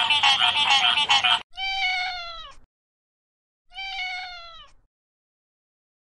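A frog's fast pulsed calling runs for the first second and a half, then a domestic cat meows twice, each meow about a second long and dropping in pitch at the end, with a short silence between.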